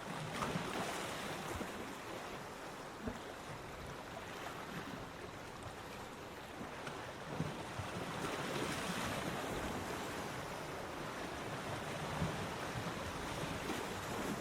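Ocean waves washing onto a beach, a steady surf hiss that swells as a wave breaks about eight seconds in and again near the end, with a few small sharp splashes.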